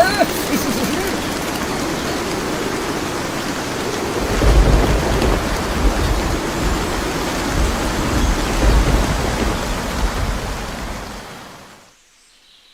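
Steady rushing noise like heavy rain, with a low rumble from about four to ten seconds in. It fades away near the end.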